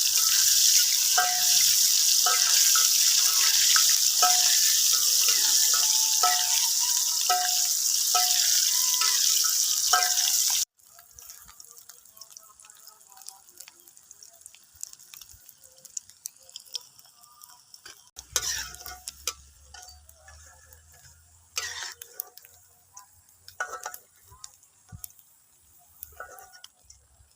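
Food frying in hot oil, a steady sizzle with repeated short clinks of a utensil stirring in the pan. After a sudden cut about ten seconds in, it drops to a much quieter stretch of scattered clicks and light knocks.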